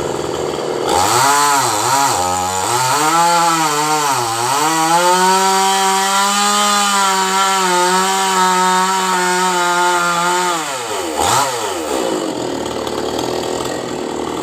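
Two-stroke chainsaw revved up and down a few times, then held at high revs for about six seconds before dropping back to idle near the end.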